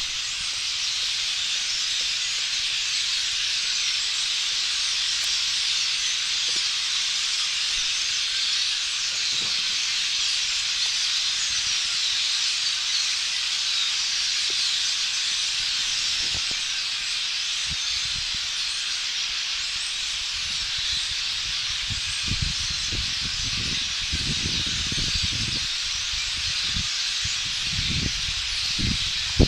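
A huge flock of blackbirds, red-winged blackbirds among them, calling all at once in a steady, dense, hissing chatter. Low thumps come and go in the last third.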